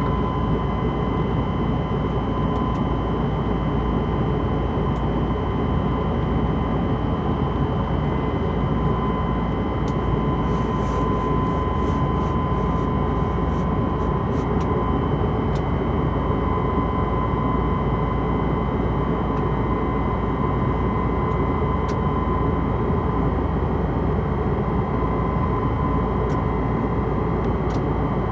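Airbus A320 in flight, heard inside the cabin: a steady rush of jet engine and airflow noise with a steady whine on top.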